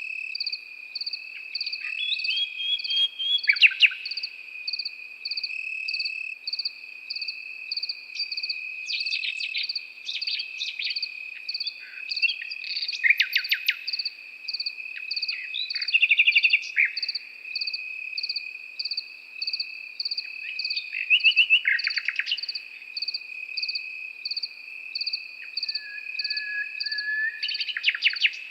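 Nightingale singing short, varied phrases every few seconds over a steady chorus of crickets: one unbroken high trill and a pulsing chirp about twice a second.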